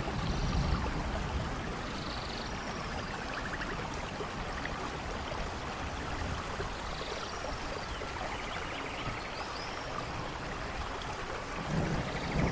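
Steady heavy rain in a rainforest thunderstorm. A low thunder rumble dies away in the first second or so, and a new roll of thunder builds near the end.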